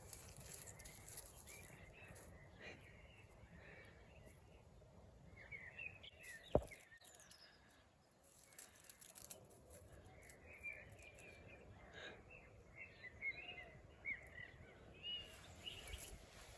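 Faint outdoor background noise with small birds chirping on and off. A single sharp click is the loudest sound, about six and a half seconds in.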